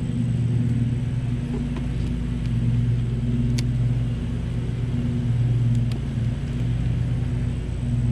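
Honeybees buzzing around an open hive: a steady, low hum that swells and eases every second or two, with a few faint clicks.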